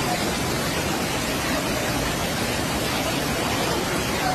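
Floodwater rushing past, a steady even noise with no breaks.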